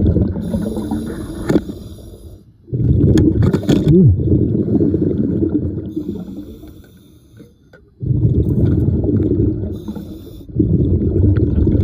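A diver breathing underwater through a regulator: long, low, bubbling rushes of exhaled air about every three seconds, with a fainter hiss of inhaled air in the gaps between them.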